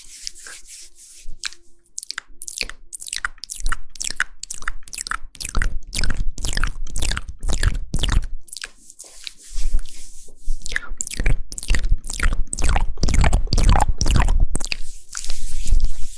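ASMR mouth sounds close to the microphone: a quick run of wet clicks and smacks from tongue and lips, several a second, growing louder and fuller partway through.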